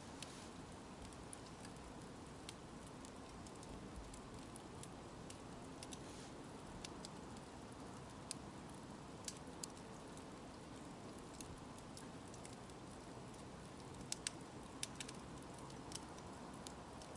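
Wood campfire crackling: a faint steady hiss with scattered sharp pops and snaps, a brief flurry of them near the end.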